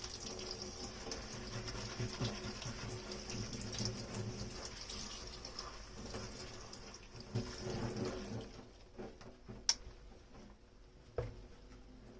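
Kitchen tap water running into the sink during dish washing. The water dies away about two-thirds of the way through, leaving a quieter stretch with a couple of sharp clicks.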